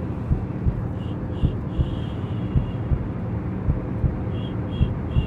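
A mother's heartbeat as heard in the womb: low double thumps about once a second over a steady whooshing hum.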